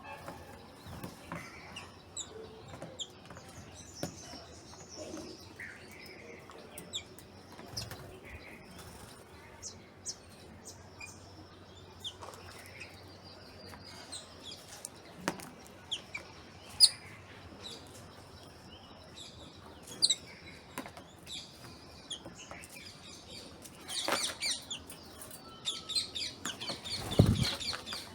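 Small birds chirping in short scattered calls, with quick clicks and flutters between them. The chirping turns dense and busy over the last few seconds, with a single low thump just before the end.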